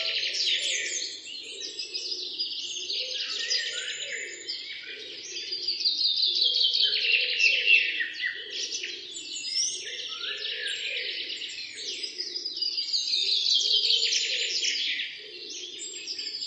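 A chorus of birds chirping and singing, with long falling trills that come back again and again, over a lower call that repeats about twice a second.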